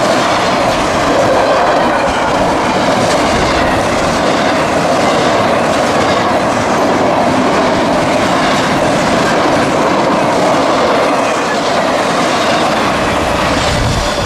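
CSX intermodal freight train's cars rolling past: a loud, steady rumble of steel wheels on rail with clickety-clack over the rail joints.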